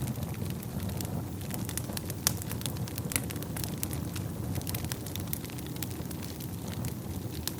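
Wood fire burning in a fireplace: a steady low rumble of flames with frequent, irregular crackles and pops from the burning logs, one louder pop a little over two seconds in.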